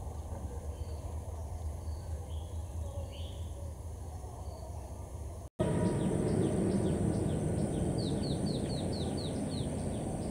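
Outdoor ambience with a steady low hum and occasional bird chirps. About five and a half seconds in it cuts to the louder, even rumble of an approaching diesel train, with a quick run of falling bird chirps near the end.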